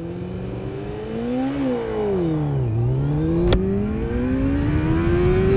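600cc sportbike engine during a standing-start launch: revs held and rising, then sagging for about a second as the clutch bites (the engine bogging), then climbing steadily through first gear before dropping for an upshift at the very end. A single sharp click about three and a half seconds in.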